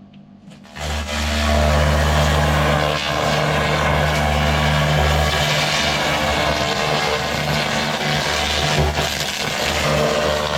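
Continuous-wave laser cleaning machine working on a truck chassis: a steady loud hiss and crackle of the beam stripping the surface over a low machine hum, coming in under a second in and holding.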